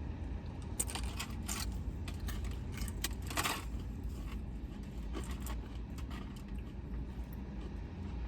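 Eating and food-handling noises in a car: a run of crisp crackling, scraping clicks in the first few seconds, loudest about three seconds in, over a steady low rumble.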